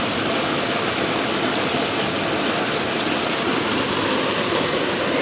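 Steady rush of a river's water cascading over rocks.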